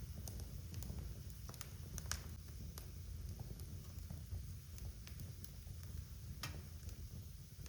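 Wood fire crackling in a fireplace: irregular sharp pops and snaps, roughly one a second, over a low steady rumble of the flames. The strongest snaps come about two seconds in and near the end.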